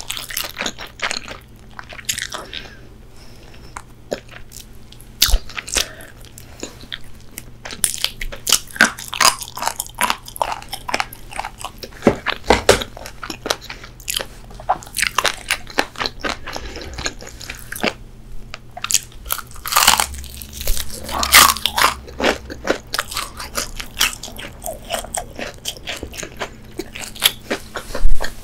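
Close-miked crunching and chewing of crispy fried chicken: irregular sharp crackles of the breaded crust, bite after bite.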